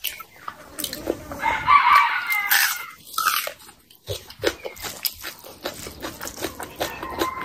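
Close-miked eating sounds: wet chewing and mouth clicks from a mouthful of biryani and mutton curry, with a louder, crackly and slightly squeaky passage about two seconds in. Near the end, fingers dig into the rice.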